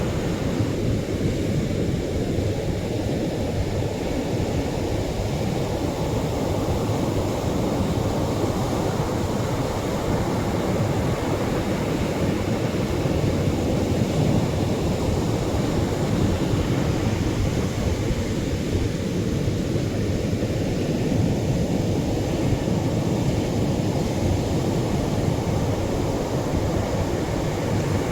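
Atlantic surf breaking on the shore: a steady low rushing of waves. The higher hiss thins out and fills in again slowly as the waves come and go.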